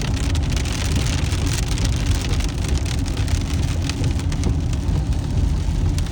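Heavy rain hitting a moving car, many drops ticking on the roof and windshield, over a steady low rumble of road and engine noise inside the cabin.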